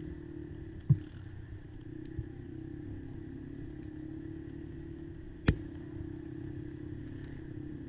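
Kymco Maxxer 300 quad's engine running steadily, with two sharp knocks, the first about a second in and the second about five and a half seconds in.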